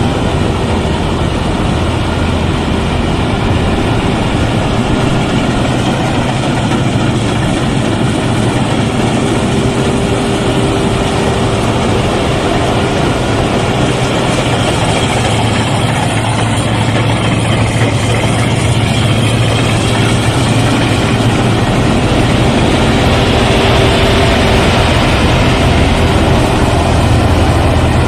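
Rice combine harvester running steadily, its engine and threshing machinery making a continuous drone that grows slightly louder near the end.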